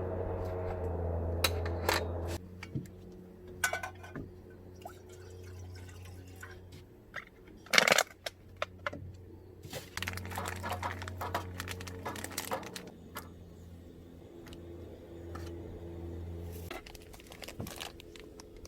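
Liquid being poured and dripping, with scattered clicks and knocks of handled objects, over a steady low hum that stops near the end.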